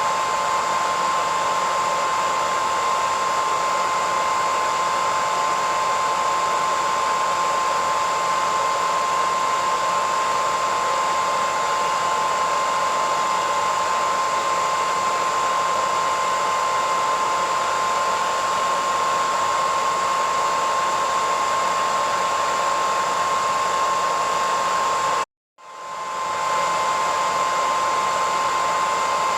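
Hairdryer running steadily, a constant rushing blow with a steady high whine. About 25 seconds in it cuts out abruptly for half a second, then fades back up to the same steady sound.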